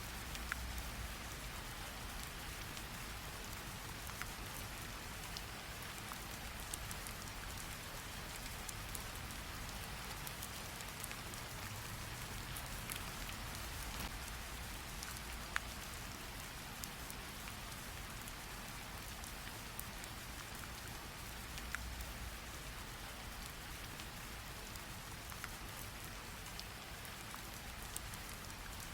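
Steady rainfall with scattered drop ticks, a recorded rain sound effect.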